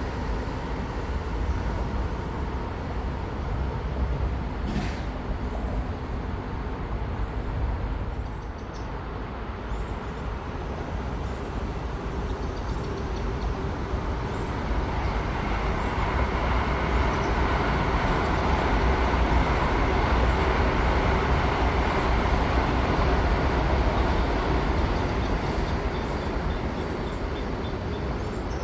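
High-speed train passing with a rushing noise that swells about halfway through, stays loudest for several seconds, then eases off near the end.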